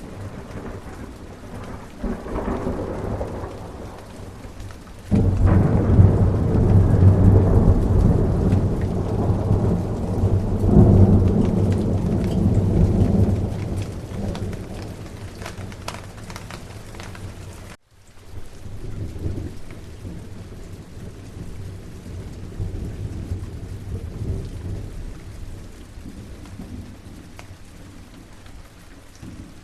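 Steady rain with thunder: a deep rumble of thunder breaks in suddenly about five seconds in, rolls for several seconds and fades away, while the rain keeps falling. The sound cuts out for a split second about eighteen seconds in.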